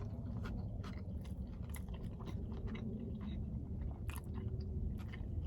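A person chewing a big mouthful of steak cheeseburger, with scattered small wet mouth clicks over a low steady hum.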